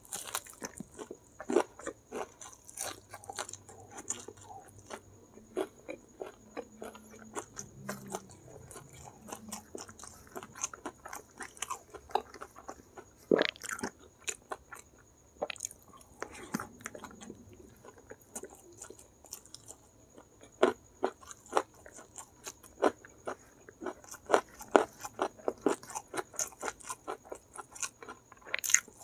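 Close-miked biting and chewing of crispy Kentucky-style fried chicken drumsticks: irregular crunches all through, with a few louder bites about halfway and near the end.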